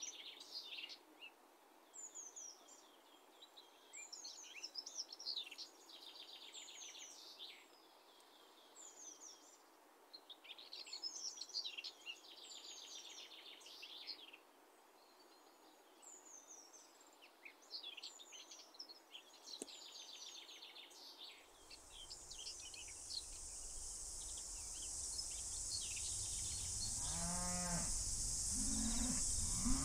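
Small birds singing in short repeated phrases over a quiet background. About two-thirds through the sound changes to a steady high insect buzz with a low rumble, and a cow moos near the end.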